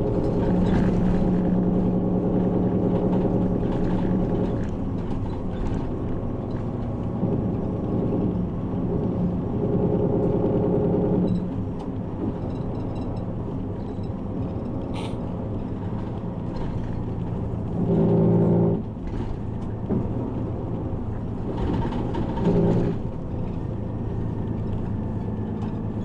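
Inside a moving city bus: a continuous low engine and road drone, with the engine's hum swelling for a few seconds at a time several times as the bus pulls and eases off.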